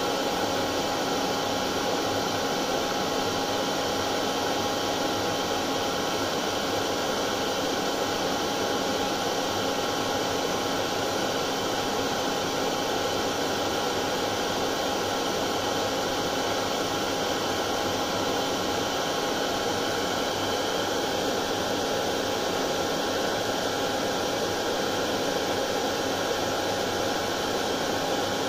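Hair dryer running continuously with a steady whooshing hiss of air and a constant motor whine, without change.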